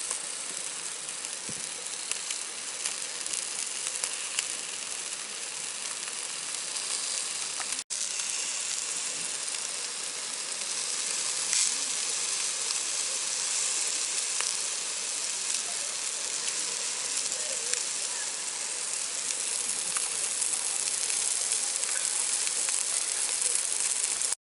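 Food sizzling as it fries in a pan over a campfire, a steady hiss with a few faint pops. The sound cuts out for an instant about eight seconds in.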